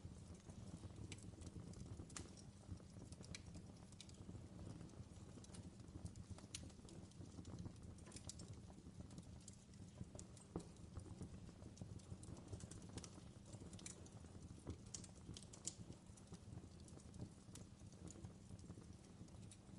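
Faint fireplace crackling: irregular pops and snaps over a steady low rumble of the burning fire.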